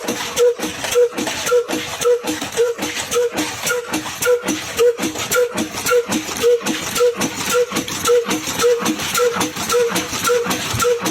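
Old single-cylinder Ruston Hornsby diesel engine running steadily, with an even, regular beat about twice a second and sharp clattering over it.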